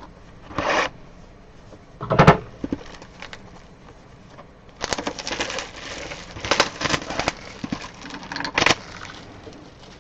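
Trading-card boxes being opened and handled: crinkling wrapper and scraping cardboard. There is a knock about two seconds in, then a longer stretch of rustling and tearing in the second half.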